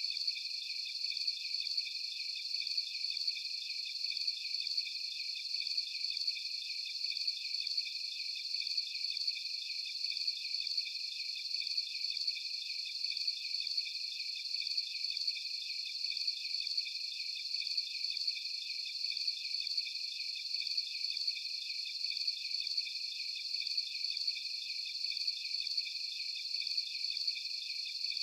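Night chorus of crickets chirping in a steady, pulsing trill, several overlapping voices at different high pitches.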